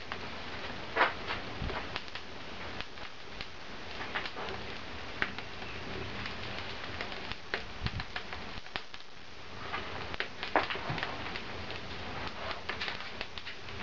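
A fire crackling in a barbecue fireplace, with irregular sharp snaps and pops over a steady hiss.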